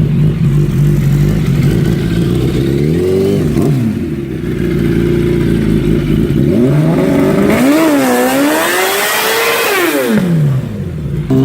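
A big motorcycle-engined custom trike idles for about three seconds, then is revved: one quick blip near the middle, then several longer revs rising and falling in the second half.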